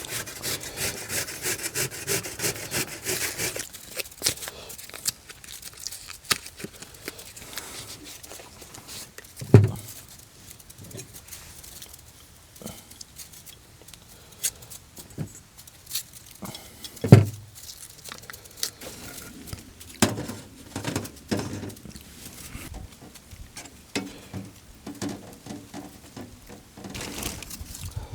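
Rapid scraping for about four seconds, then scattered clicks and knocks with two heavier thumps, one about ten seconds in and one about seventeen seconds in.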